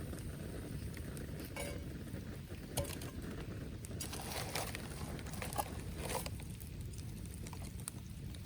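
Wood campfire crackling, with scattered sharp pops and snaps over a steady low rush.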